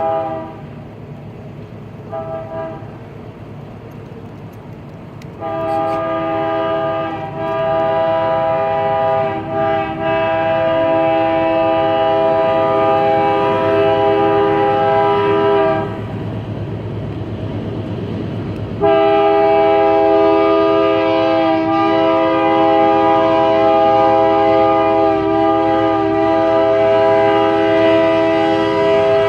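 Freight diesel locomotive's air horn sounding a chord of several notes: a short toot about two seconds in, then a long blast of about ten seconds and another long blast near the end. Between the blasts, the train's engine and wheels rumble.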